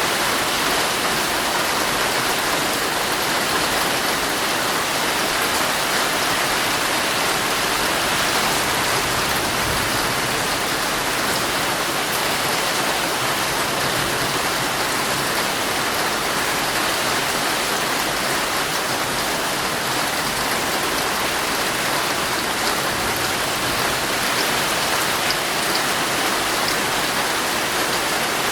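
Heavy rain falling steadily on a tent, heard from inside: a dense, even hiss that stays at one level, with no thunder.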